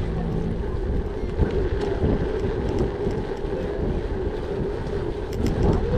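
Wind buffeting the microphone, a steady low rumble, over the running noise of a gravel bike, with a few faint ticks near the end.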